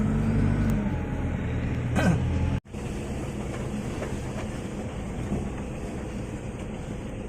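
Vehicle engine running steadily. About two and a half seconds in, the sound cuts out abruptly, then goes on as a steady rumble of engine and road noise.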